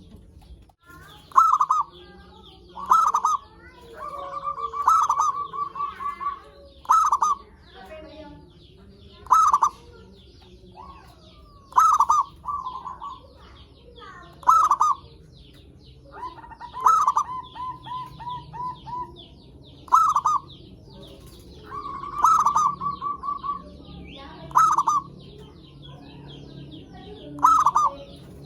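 Zebra dove (perkutut) cooing: loud short coos every two to three seconds, several of them running on into a quick trilled series of notes lasting one to two seconds.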